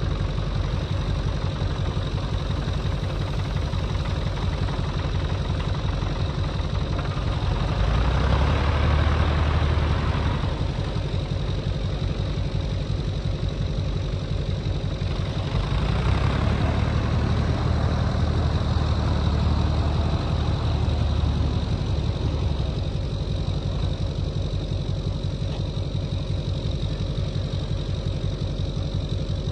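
An engine running steadily near idle, revving up for a couple of seconds about eight seconds in and again for several seconds about sixteen seconds in, then settling back.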